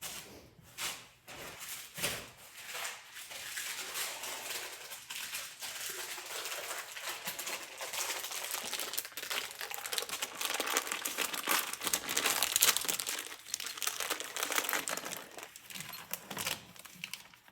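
Plastic packaging crinkling and crackling as it is handled and opened, a busy run of small crackles that is loudest a little past the middle and dies away near the end.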